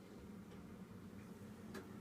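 Hotpoint washing machine running quietly mid-wash: a low steady hum with a couple of faint clicks, one near the end.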